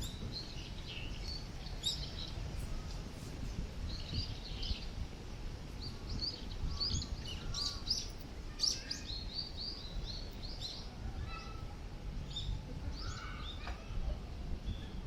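Small birds chirping over and over, with a steady low rumble of wind on the microphone and a few sharp clicks.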